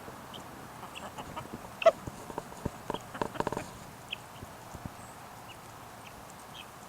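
Chickens clucking while feeding, a scatter of short cluck notes and clicks, busiest in the middle with one sharp loud click just before two seconds in.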